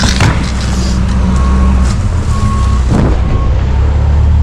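Semi truck's diesel engine idling with a steady low rumble, while a backup alarm gives three short beeps about a second apart. A couple of brief knocks are also heard, near the start and about three seconds in.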